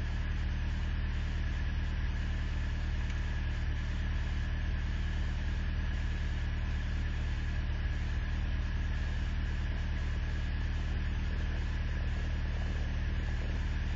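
Truck engine idling steadily in sub-zero cold, with an even low hum.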